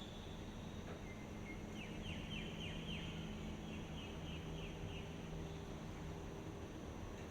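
Steady outdoor background noise with a faint low hum, over which a bird calls: a thin high note about a second in, then a rapid series of short repeated notes lasting about three seconds.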